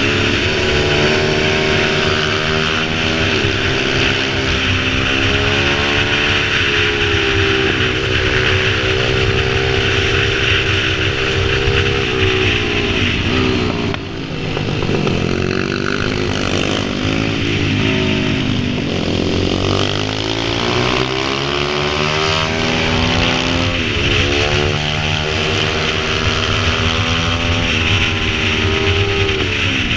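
Pit bike engine running with the throttle opened and closed, its pitch rising and falling again and again. The sound drops briefly about halfway through.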